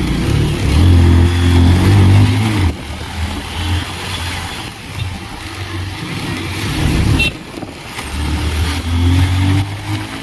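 Road traffic: a motor vehicle engine swells loud with a deep hum for the first couple of seconds, another does so again near the end, and a steady road hiss runs between them.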